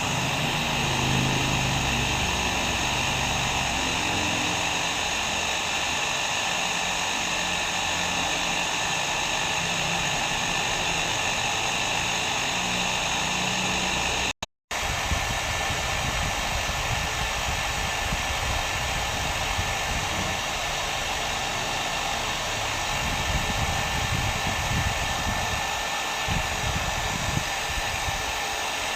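Hair dryer running steadily: an even blowing rush with a faint motor whine. It cuts out completely for a fraction of a second about halfway through, then carries on.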